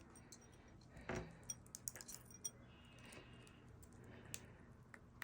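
Faint, scattered light clicks and taps, a slightly fuller tap about a second in: a pineapple conure's beak picking at seed among hard-boiled Easter eggs.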